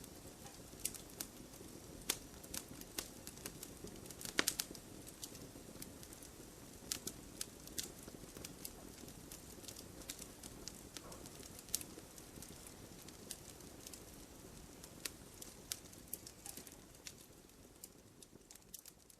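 Wood fire crackling and popping: sharp, irregular pops over a steady low hiss of the flames, with a cluster of louder pops about four seconds in. The sound fades down near the end.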